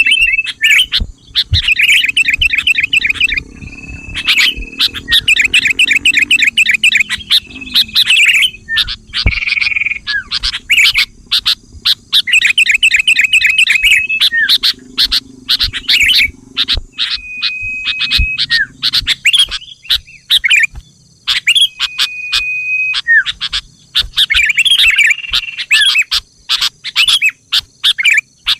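Sooty-headed bulbul calls: bouts of rapid chattering notes alternating with short, level whistled notes, repeated again and again with brief pauses, over a faint steady high buzz.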